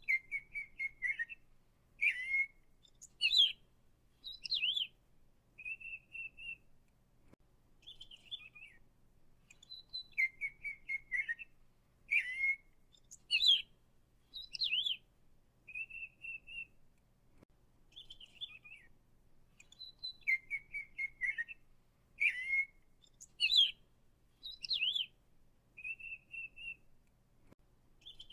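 A songbird singing short clear whistled phrases and quick trills. The same sequence of phrases repeats almost identically about every ten seconds.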